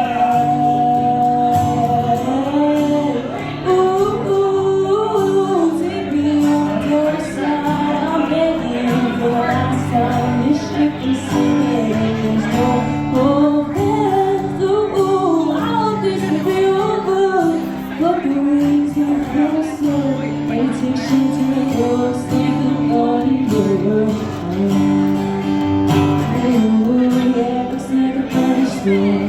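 A young girl singing, accompanied by guitar.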